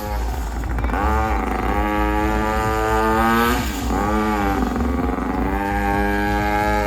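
Car engine revving repeatedly, its pitch climbing and falling with each blip of the throttle over a steady low rumble.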